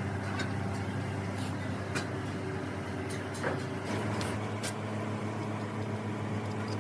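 A steady mechanical hum that shifts pitch about four seconds in, with scattered light clicks and taps.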